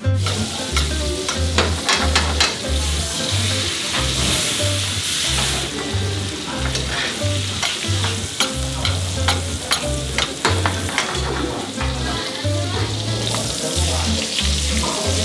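Slices of foie gras sizzling and crackling as they sear in their bubbling fat in hot skillets, the sizzle swelling louder twice; a spatula now and then works in the pan. A low bass line of background music runs underneath.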